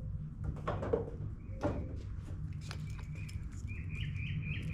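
A small bird chirping in quick repeated notes during the second half, over a steady low hum. Light clicks and taps of small parts being handled come earlier.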